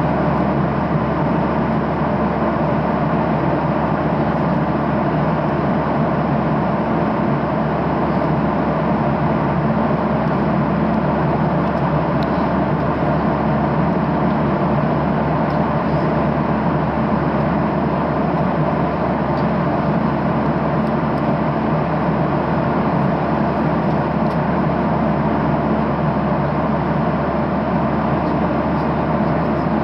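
Steady cabin noise of a Boeing 737-800 airliner in flight: an even rush of airflow with a low hum from its CFM56-7B jet engines, unchanging throughout.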